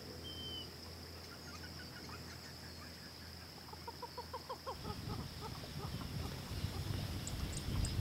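A wild bird gives a rapid series of short call notes, falling in pitch, over a steady high insect buzz. About halfway in, a low rumbling noise comes up and becomes the loudest sound, and near the end a few very high, short ticks are heard.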